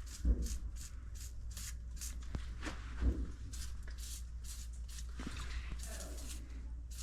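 Aerosol can of PB Blaster penetrating oil sprayed in many short hissing bursts, a few a second, onto steam pipe threads to free the seized fittings. A couple of light knocks are heard, near the start and about three seconds in.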